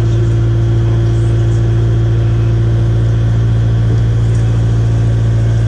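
Kubota 057-5 excavator's diesel engine running at a steady speed, heard from inside the cab as a constant, even drone.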